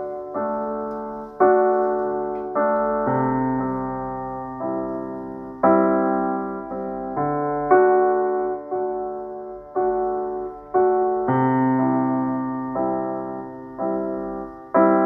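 Instrumental piano or electric-piano introduction: chords struck about once a second, each left to ring and fade before the next.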